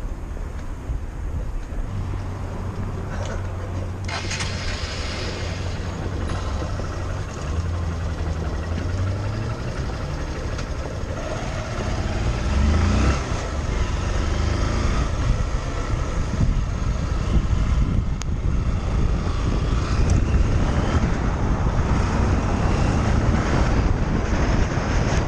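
125cc motorcycle engine running under a steady rush of wind on the helmet microphone. The engine note holds steady for several seconds, then changes about twelve seconds in as the sound grows louder.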